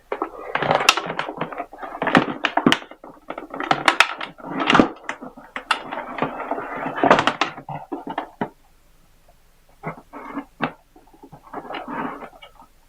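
Hands working battery cables and terminal hardware at a battery box: busy irregular clicking, rattling and small knocks of metal and plastic for about eight seconds, then a few scattered clicks.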